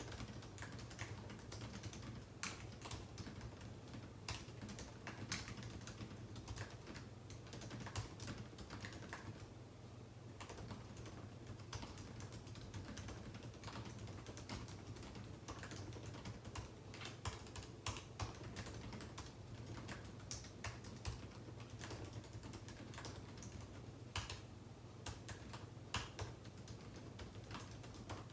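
Typing on a computer keyboard: a steady, irregular stream of keystroke clicks, with a faint steady low hum underneath.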